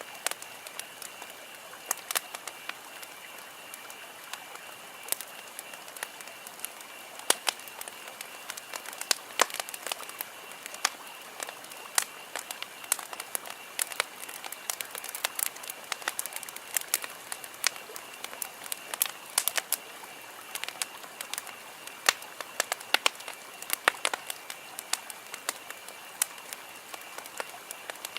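Wood campfire crackling and popping, with many irregular sharp snaps over a soft steady hiss, and a steady high-pitched tone running underneath.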